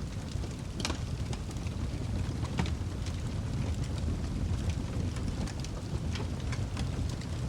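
Wood fire in a fireplace crackling, with scattered sharp pops over a steady low rumble of the flames. The loudest pops come about a second in and again after about two and a half seconds.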